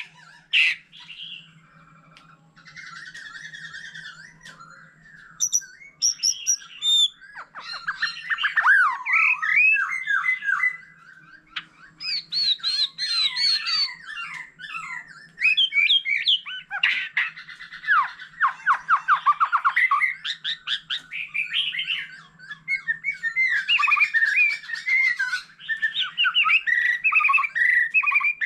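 White-rumped shama singing a long, varied song of clear whistles, rapid sweeping trills and changing phrases, one after another with brief pauses. A softer passage comes near the start before the louder, fuller phrases.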